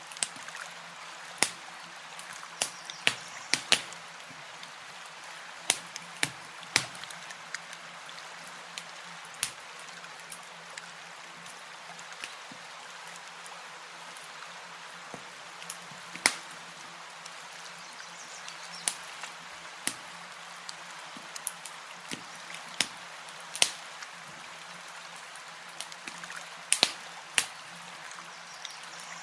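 Campfire crackling: sharp pops and snaps at irregular moments over a steady hiss.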